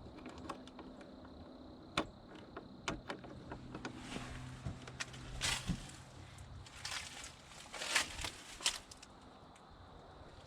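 Scattered clicks and knocks, then longer rustling swishes, the loudest about eight seconds in: a hunter handling and packing up gear in a small hunting shack.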